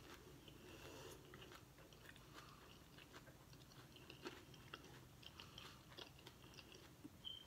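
Faint chewing: a person eating a taco, with scattered small mouth clicks.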